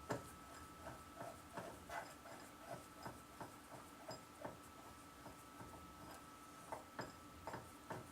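Light, irregular clicks and taps of small metal lathe parts being handled and fitted during reassembly of a headstock, about two or three a second, over a faint steady hum.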